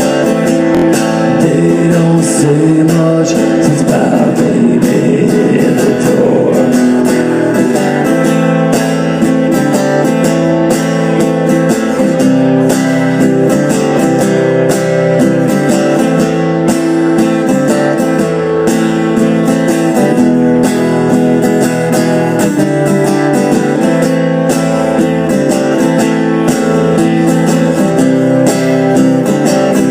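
Guitar playing an instrumental passage of a blues song, strummed and picked at a steady pace.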